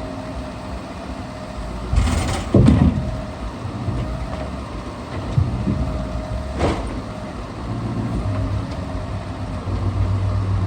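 Scania R650 timber truck's V8 engine running to drive the hydraulic Epsilon loader crane, its hum swelling and easing as the crane works. Heavy wooden knocks of logs striking each other come a few times in the first seven seconds, the loudest about two and a half seconds in.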